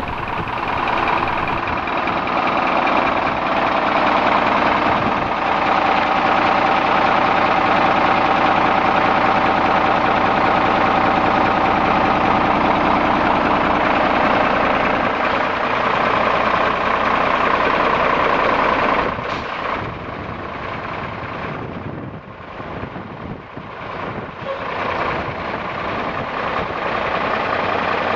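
1995 Peterbilt roll-off truck's diesel engine running steadily, dropping in level about twenty seconds in and picking back up near the end.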